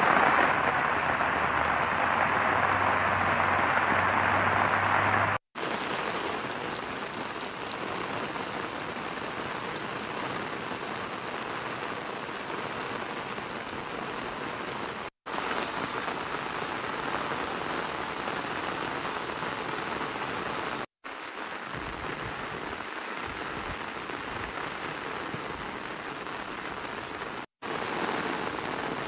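Heavy rain pouring steadily. It comes as several spliced field recordings with brief silent gaps at the cuts. The first stretch, about five seconds long, is the loudest and has a faint low hum under it.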